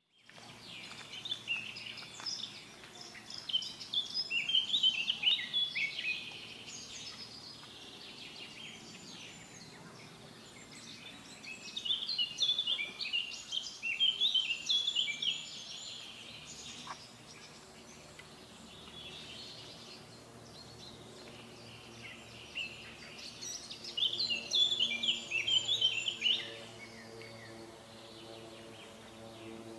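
A songbird singing in three bouts of rapid, high chirping notes, each a few seconds long, over steady outdoor background noise.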